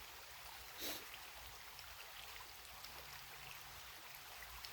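Faint, steady rush of a small creek flowing, with a short soft noise about a second in.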